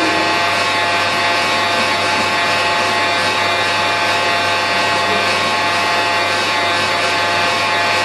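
Intermac Master Stone 4000 stone-working CNC running steadily, a continuous machine hum and whine made of many steady tones over a noise of air and motors, while a tool is measured automatically by the laser presetter.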